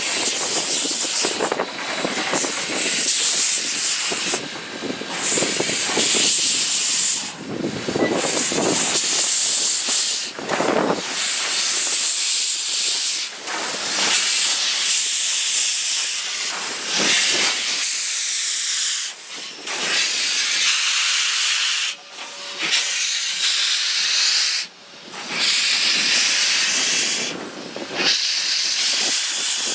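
Steam locomotive WP 165, a Western Pacific Alco 0-6-0, venting steam in a loud, steady hiss that breaks off briefly every few seconds.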